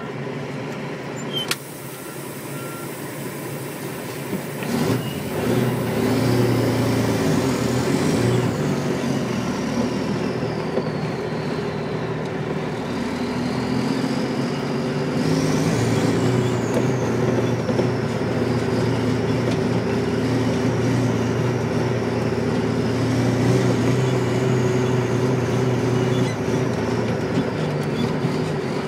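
Dump truck engine running, getting louder about five seconds in, with a high whine that rises and falls several times. A sharp click comes shortly before the engine sound swells.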